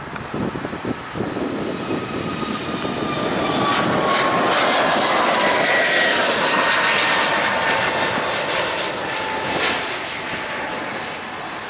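Jet airliner passing close by, its engine noise swelling to a peak and fading, with a whine that falls in pitch as it goes past.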